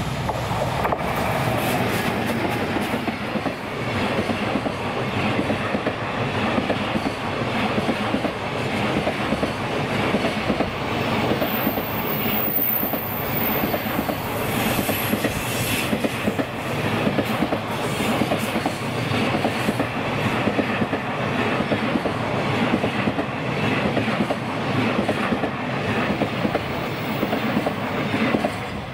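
A container freight train of Koki 106 wagons, hauled by an EF210 electric locomotive, passing close by. The wheels give a steady rumble and a rhythmic clickety-clack as each wagon's bogies cross the rail joints, with a brief high squeal of the wheels near the middle.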